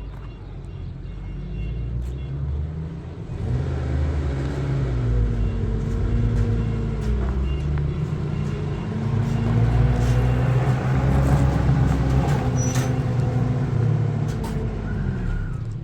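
A motor vehicle's engine running, its pitch rising and falling several times as it revs and eases off. It grows louder about three seconds in and is loudest in the second half.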